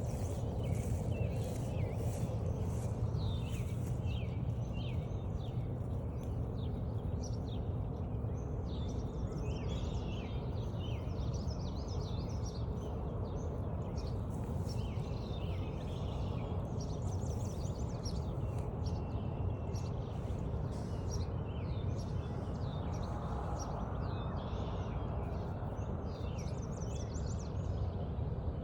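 Several songbirds singing and chirping together, with short trills and calls scattered throughout, over a steady low rumble of background noise. A run of regular soft ticks sounds in the first few seconds.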